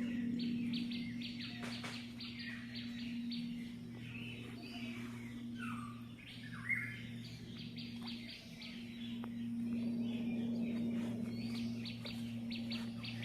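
Several birds calling outdoors: short downward-sliding chirps and bursts of rapid chattering notes, over a steady low hum.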